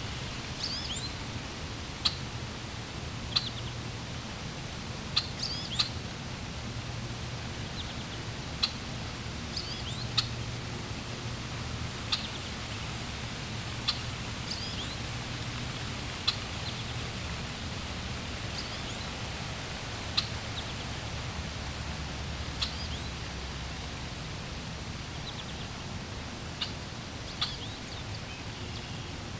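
Small birds chirping in short, sharp calls every second or two over a steady rush of flowing water.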